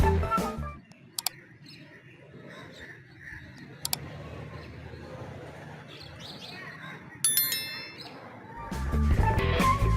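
Quiet outdoor background with a steady low hum and a couple of sharp clicks, a single bright ringing ding about seven seconds in, then guitar music coming in loudly near the end.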